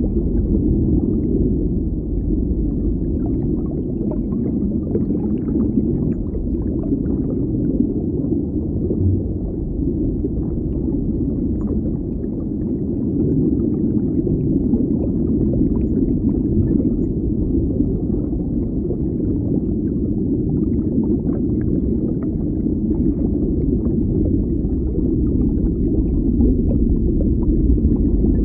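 Underwater ambience: a steady, muffled low rumble with faint scattered crackles.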